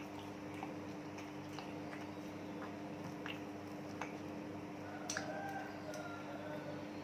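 Someone chewing food with irregular wet mouth clicks and smacks, over a steady low hum. A sharper click with a short faint whistle-like tone comes about five seconds in.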